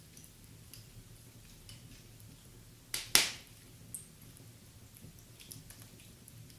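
Fireplace fire crackling with sparse small ticks and snaps, and one loud sharp pop about three seconds in.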